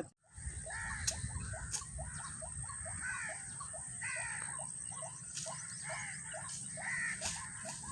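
White-breasted waterhen calling: a long run of short, repeated croaking notes, about three a second, after a brief drop-out at the start.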